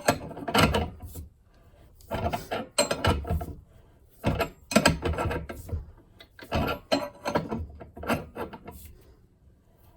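Ball joint press's forcing screw being cranked with a wrench in repeated strokes, with metal creaking and grinding as the ball joint is pushed out of a Ford Super Duty Dana 60 steering knuckle. The joint is coming free and loosening.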